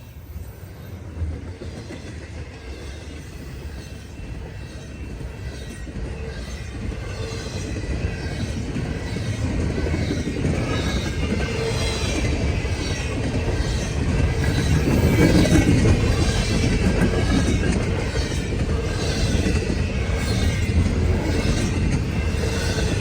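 CN freight train approaching and passing, its rumble growing steadily louder over the first half and then staying loud, with the wheels clicking over the rail joints.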